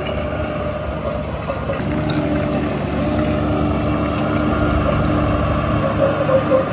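Heavy diesel engine of earthmoving machinery running steadily under load; it grows louder about two seconds in.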